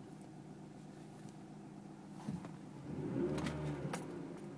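Inside a Chevrolet Cobalt SS while it is driven slowly: a steady low drone from the engine and road. From about three seconds in there is a louder rumbling stretch with two sharp knocks, as the car goes over a rough street.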